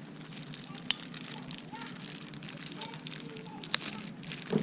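Campfire wood crackling, with sharp pops about a second in, near three seconds and again near four seconds.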